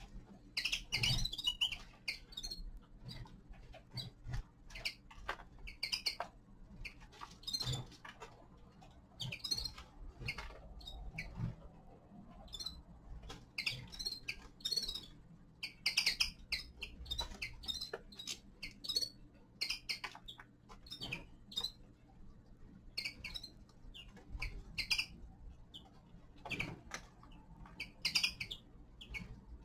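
Caged finches giving short, scattered chirps and twitters, mixed with small clicks and taps from the birds moving about the cage and feeding.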